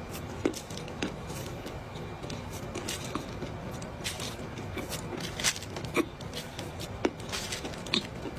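Chewing a mouthful of dry clay: irregular crisp crunches and crackles, a few sharper and louder than the rest, over a steady low hiss.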